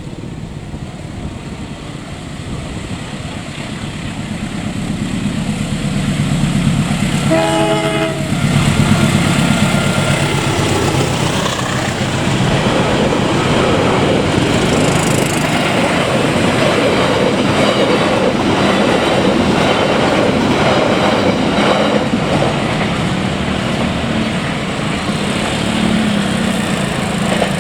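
Long-distance passenger train coming up to a level crossing and passing close by: the sound builds over several seconds, the locomotive's horn sounds once for about a second, then the passing carriages keep up a steady loud rush with wheel clatter on the rails.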